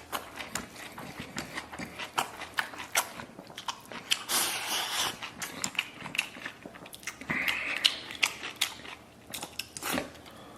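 A person chewing and biting a mouthful of meat close to the microphone, with many short wet smacking clicks and two denser bursts of chewing about four and eight seconds in.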